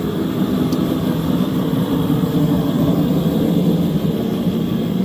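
A car engine running steadily, its sound dense and low-pitched.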